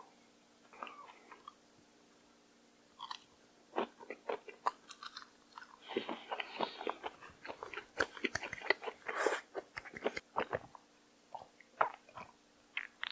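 Close-miked chewing of a cooked shrimp dipped in cold mulhoe broth: sharp clicks and wet smacks. They start about three seconds in and go on for several seconds, thinning out near the end.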